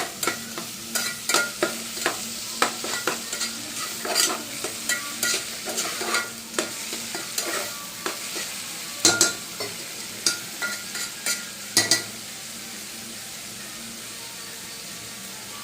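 Food sizzling in hot oil in a pan while a spatula stirs it, knocking and scraping against the pan many times; the stirring stops about twelve seconds in and only the steady sizzle continues.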